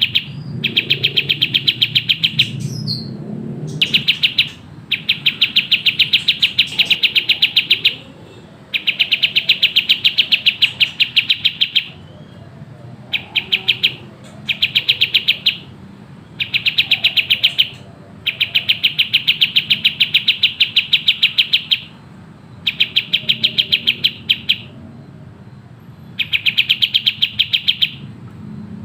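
Kapas tembak bulbul singing its fast chattering song: bursts of one to four seconds of very rapid, tightly packed high notes, broken by short pauses, with a faint low hum underneath.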